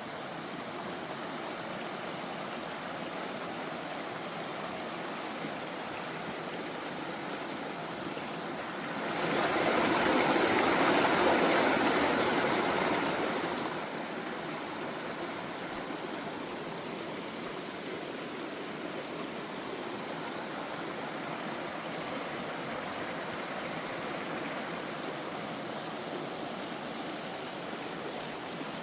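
Stream water running in a steady rush, growing louder for about five seconds near a third of the way in, then settling back.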